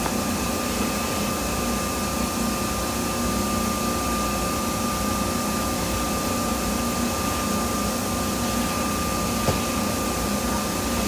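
Steady mechanical whir with a constant high-pitched whine over it, even and unchanging.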